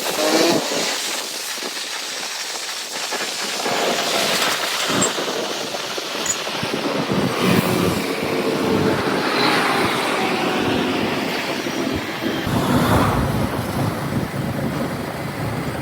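Motorcycle running on the road, its engine mixed with steady wind noise on the microphone.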